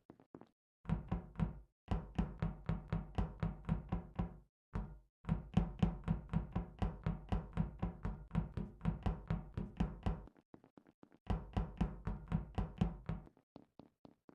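Rapid knocking sound effect from a meme: sharp knocks at about five a second, in several runs broken by short pauses, fading off near the end.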